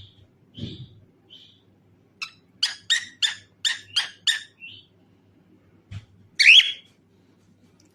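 Cockatiel calling: a few short soft chirps, then a quick run of about seven sharp chirps, then one louder call near the end.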